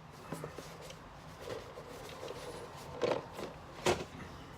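Quiet handling of a cardboard toy box as it is turned and moved, with a few short taps, the sharpest about three and four seconds in.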